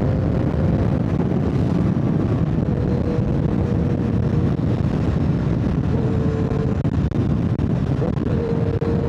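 Motorcycle being ridden at speed: a steady rush of wind on the microphone over the engine note, which holds a constant pitch and shifts slightly a few times.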